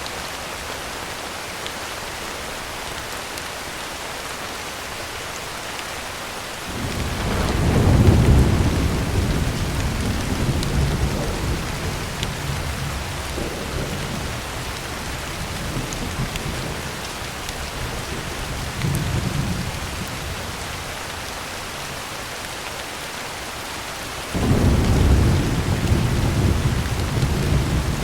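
Steady heavy rain on a tin roof. A long rolling rumble of thunder builds about seven seconds in and rolls on for several seconds, and a second rumble starts abruptly near the end.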